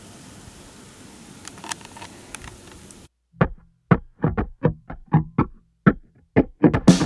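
Outdoor background hiss with a few faint clicks, cut off suddenly about three seconds in. A run of sharp plucked guitar notes follows, two or three a second, starting a piece of music.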